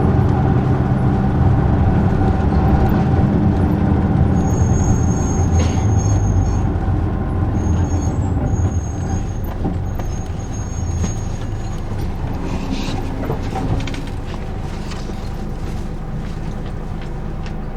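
Isuzu Erga city bus heard from inside the cabin, its diesel engine and road noise dying down as it slows. A thin high squeal comes and goes for several seconds, typical of the brakes as it comes to a stop.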